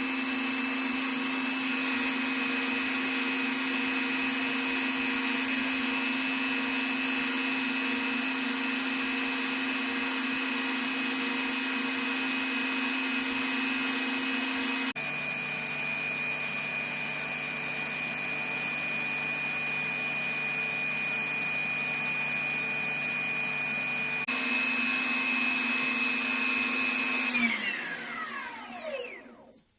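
Electric 800-size scale H130 RC helicopter running on its Egodrift 4230EC-420kV brushless motor, held by the governor at a steady head speed of about 1150 rpm: a steady motor-and-gear whine over the rotor hum. The sound changes abruptly twice, about halfway and about three-quarters in. Near the end the motor spools down, its pitch falling until it stops.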